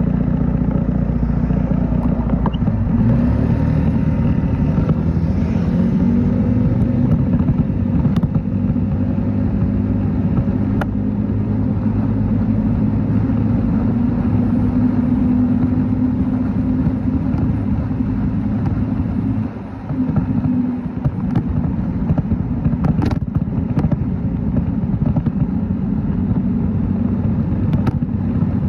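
Motorcycle engine running steadily while being ridden, with a deep rumble of road and wind noise. The engine note drops briefly about two-thirds of the way through, and a few sharp clicks sound.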